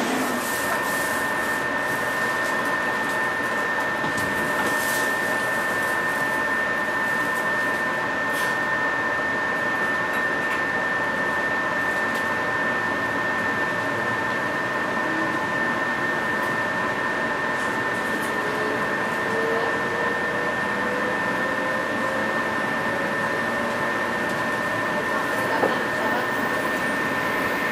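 Steady cabin noise inside a JR 117 series electric train, with a constant high-pitched whine throughout. In the second half a fainter whine slowly rises in pitch.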